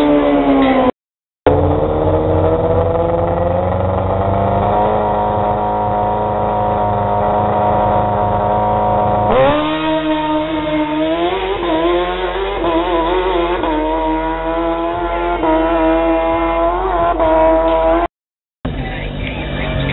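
Drag-racing motorcycle engines at the starting line: a steady idle, then about halfway a sudden rev up, held high with a wavering pitch. The sound drops out briefly twice, about a second in and near the end.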